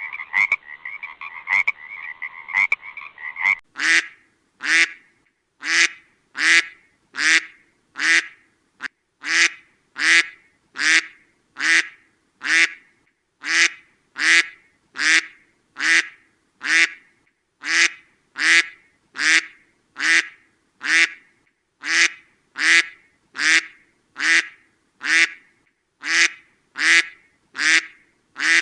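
Frog croaking in a continuous trill for the first three and a half seconds, then a duck quacking over and over in an even rhythm, a little more than one quack a second.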